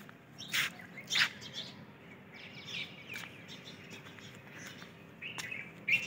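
Birds chirping: two short sharp chirps about half a second and a second in, then scattered high chirps, more of them near the end.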